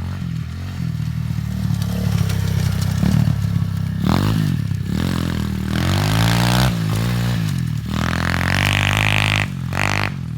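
Pit bike engine revving up and down over and over, the pitch rising and falling several times, loudest in the second half.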